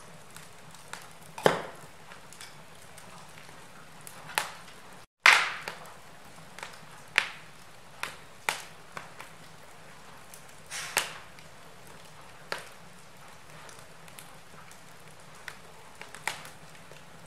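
Wood fire crackling in a fireplace: irregular sharp pops and snaps over a faint steady hiss. The sound cuts out for a split second about five seconds in, and the loudest pop follows right after.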